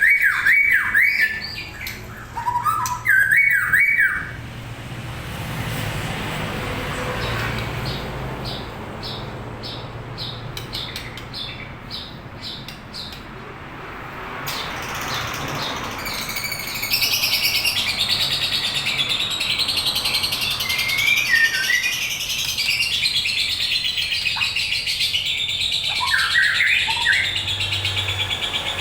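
White-rumped shama (murai batu, Medan long-tailed type) singing in full voice. The song opens with loud fluting whistles, moves into a run of quick ticking notes, and from about halfway turns into a long, dense stretch of rapid chattering mimicry with a few whistles mixed in.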